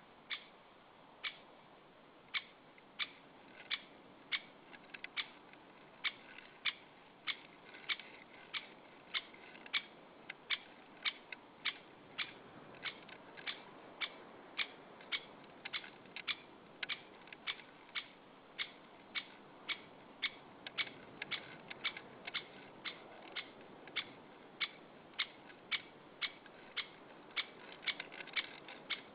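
A woodpecker calling: one short, sharp call note repeated over and over at roughly two a second.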